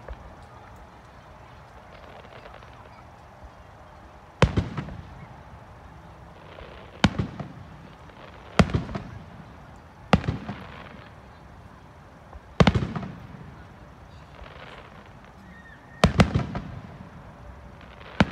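Aerial firework shells bursting overhead: about seven sharp bangs, the first about four seconds in and then one every one and a half to three and a half seconds, each trailing off in a rolling echo, with two bangs in quick succession near the end.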